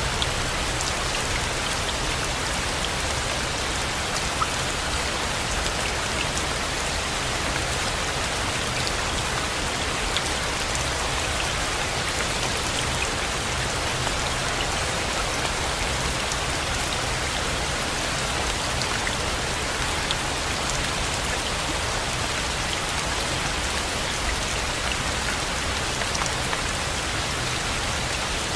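Steady rain falling: an even, unbroken hiss with scattered individual drop ticks.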